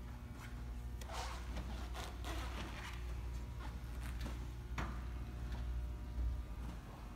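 1966 Chevrolet El Camino's engine idling with a steady low rumble, which cuts off near the end as it is switched off. Scattered light clicks and a brief rustle sit over it.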